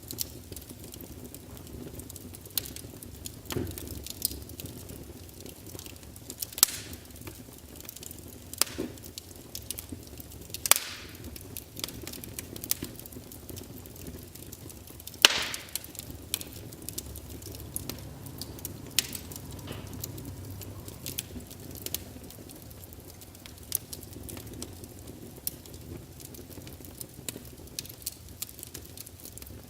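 Wood fire burning in a fireplace: logs crackling with irregular sharp pops and snaps over a steady low hiss and rumble of the flames, one pop about halfway through louder than the rest.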